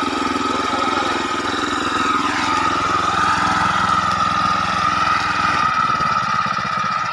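Tractor engine running steadily, with a steady high whine over the engine note.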